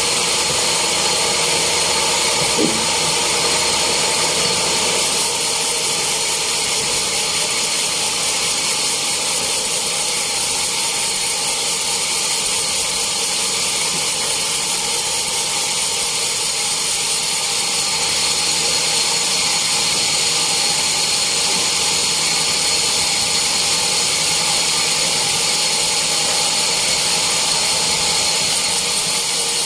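Sawmill saw running steadily: a continuous hissing machine noise that never breaks.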